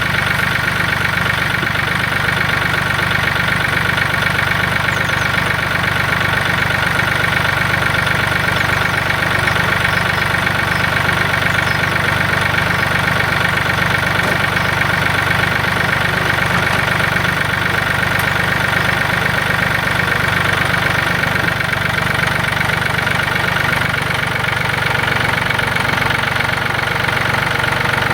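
Tractor engine running steadily at a constant speed, just after starting up.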